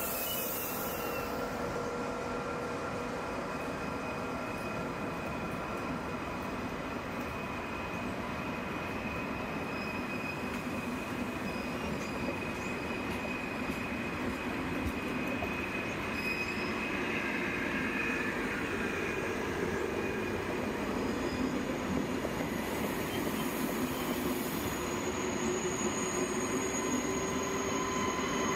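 Train running on the rails with its wheels squealing: several steady high-pitched tones over a continuous rumble.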